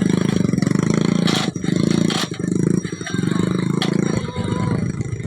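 Motorcycle engine running steadily, with a few sharp knocks over it.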